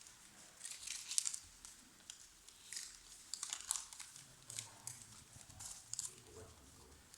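Thin paper crinkling and rustling in short irregular bursts, as gold-leaf sheets in their paper backing are handled and pressed onto a surface.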